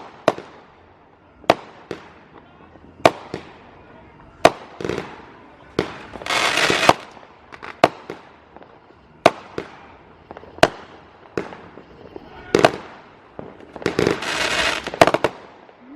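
Neighbourhood fireworks and firecrackers: a string of sharp bangs about every second, each ringing out briefly, with two longer crackling bursts about six seconds in and again near the end.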